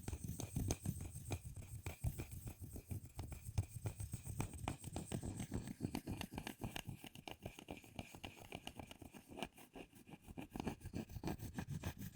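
Rapid, fine scratching strokes on a chocolate bar as a small utensil is scraped quickly back and forth across its surface; the strokes soften briefly about three-quarters of the way through.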